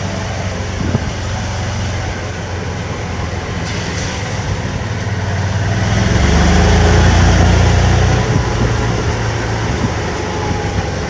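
Golf cart driving along in the rain: a steady low motor hum under a dense rushing hiss of rain and wind, growing louder about six seconds in and easing off again.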